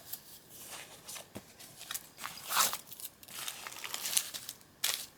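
Paper pages and card of a handmade journal rustling and crinkling as it is handled, with a few short taps.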